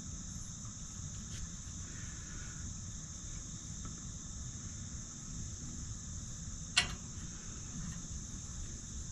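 Steady chorus of crickets and other insects, with a low rumble underneath and a single sharp click about seven seconds in.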